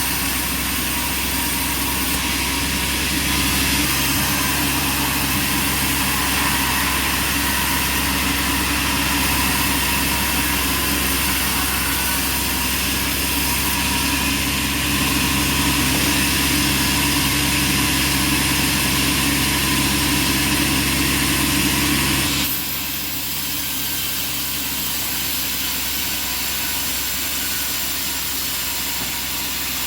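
Bandsaw sawmill machinery running steadily with a constant hum and a hiss. About 22 seconds in, the low hum drops away suddenly and the sound gets a little quieter, as part of the machinery shuts off.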